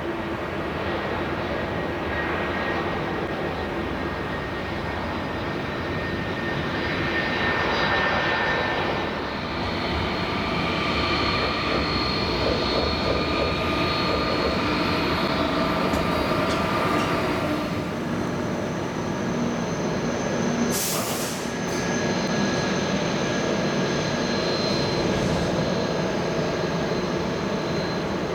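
Airbus A330-200 airliner's jet engines running, a steady loud noise with several high whining tones that change pitch around the middle. A brief sharp click about 21 seconds in.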